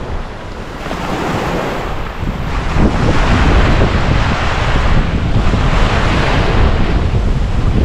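Ocean waves breaking on the shore, with wind buffeting the microphone; the surf grows louder about two and a half seconds in and stays loud.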